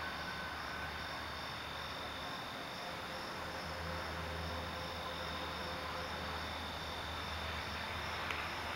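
Crickets chirping in a continuous, evenly pulsing high trill, over a low steady hum.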